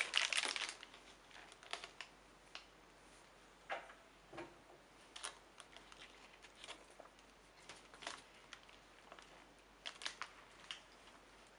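Intermittent rustling and crinkling, loudest in a burst at the start, then scattered light clicks and ticks.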